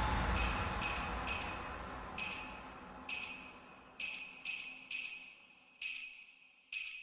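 Bells jingling in an uneven rhythm, about a dozen bright ringing shakes that each fade away, over a low rumble that dies out in the first two seconds.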